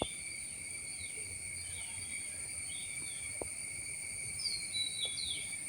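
Steady, high-pitched drone of insects that fills this mangrove area, with a bird giving a few short falling chirps early on and again in a quick cluster near the end.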